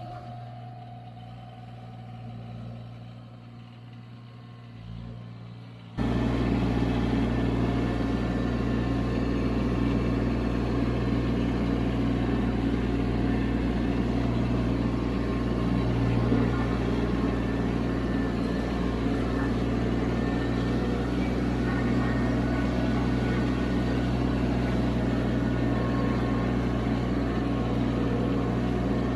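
Subcompact tractor engine running steadily with a low, even hum. It is fainter at first and jumps abruptly to a loud, close sound about six seconds in.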